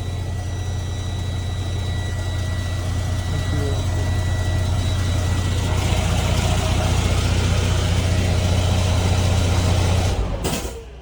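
Detroit DD13 inline-six diesel engine idling smoothly and steadily, with no unusual noises. It grows a little louder about six seconds in and cuts off abruptly near the end.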